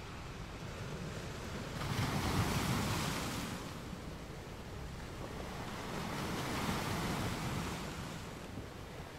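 Tyre and road noise of a car cruising at about 38 mph, heard from inside the cabin, with two oncoming vehicles whooshing past, one about two seconds in and another around six to seven seconds in.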